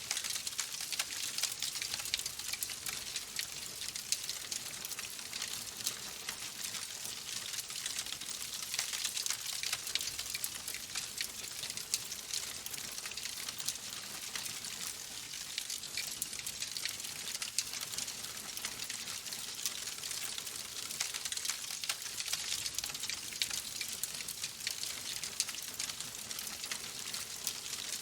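Logs burning in a fireplace, crackling: a dense, steady run of small snaps and pops over a soft hiss.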